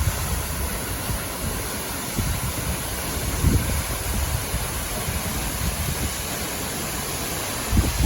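Steady rush of a 36 m straight-drop waterfall, with low wind buffeting on the microphone now and then, strongest near the end.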